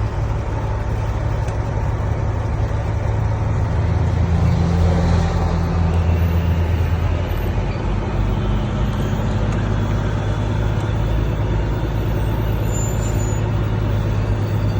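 Heavy truck engine running with a steady low hum and road noise. The engine grows louder for a few seconds about four seconds in, then settles back.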